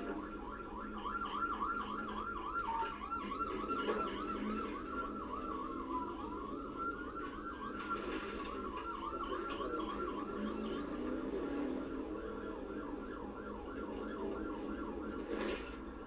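Police car siren in a fast yelp, sweeping up and down about three to four times a second, changing to a slower wail glide about halfway through before the yelp resumes. Steady vehicle running noise lies underneath.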